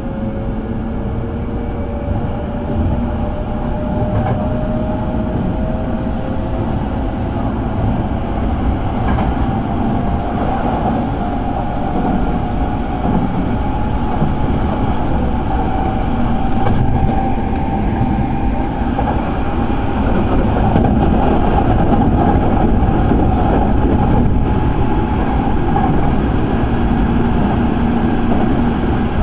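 Electric train heard from inside the passenger car, under way: a motor whine rises in pitch over the first dozen seconds as the train picks up speed, then holds steady over a constant wheel-and-rail rumble.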